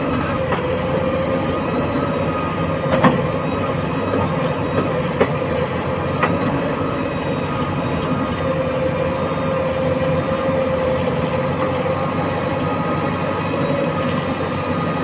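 Heavy diesel machinery running steadily, with a steady whining tone over the engine noise and a few sharp clanks about three, five and six seconds in.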